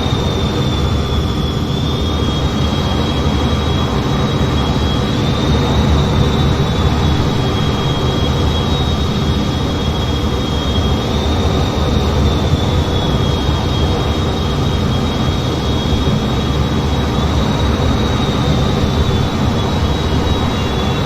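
Steady in-flight noise of an F-15 fighter: a constant loud rumble of jet engines and airflow, with a thin high whine that shifts slightly up and down in pitch every few seconds.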